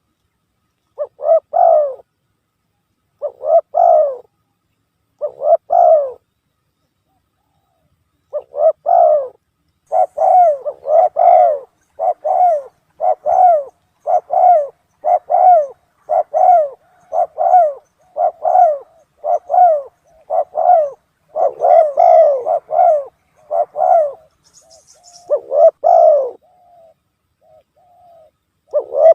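Spotted dove (tekukur) cooing, played as a lure call. Three separate coos, a short pause, then a steady run of coos at about one a second.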